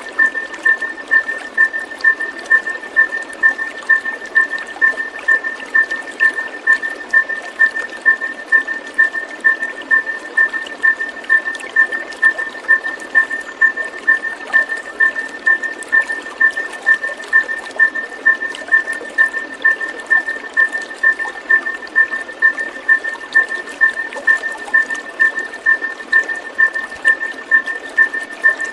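Looped therapy audio for a white-rumped shama: a short call at two fixed pitches repeats evenly about twice a second, over a steady rush like running water.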